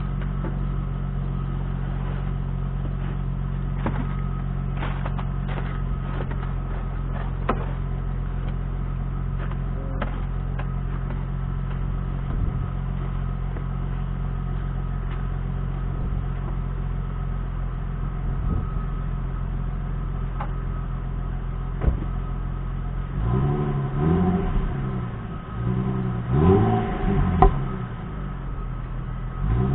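Infiniti G37's 3.7-litre V6 idling steadily through a modified exhaust (glasspacks in place of the resonators, a Cherry Bomb muffler on one side and a Thrush on the other), then revved several times near the end, the pitch rising and falling with each blip.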